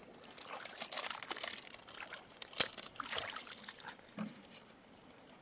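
Water trickling and splashing among stones, with one sharp knock about two and a half seconds in; it grows quieter near the end.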